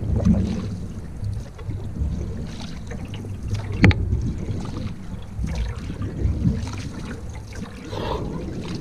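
Canoe out on the water: a low rumble of wind on the microphone with paddling and water noise, and one sharp knock about four seconds in.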